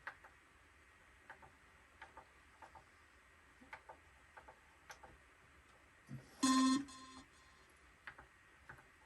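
Faint, irregular clicks of buttons and controls on a Korg minilogue synthesizer being pressed while paging through its menus. About six and a half seconds in, one short, bright synth note sounds, then fades.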